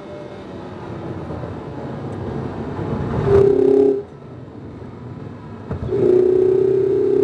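Mazda MX-5 RF's 2.0-litre four-cylinder engine under hard track driving. It builds revs to a loud, held note, then drops away sharply about four seconds in. After a quieter two seconds it comes back on the throttle with revs climbing steadily near the end.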